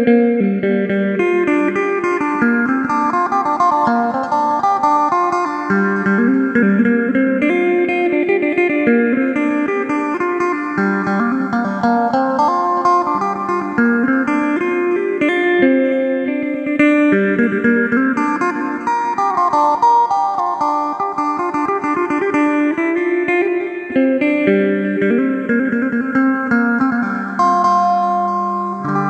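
Electric phin, a four-string, 18-fret Isan lute with a jackfruit-wood body, played as a steady stream of quick plucked melody notes.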